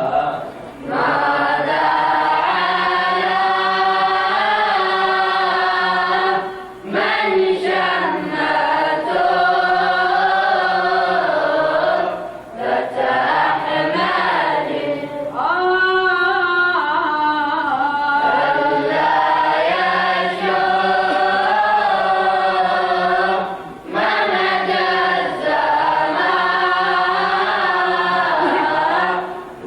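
A vocal group chanting an Arabic devotional elegy together, with no instruments, in sung phrases separated by short breaks for breath.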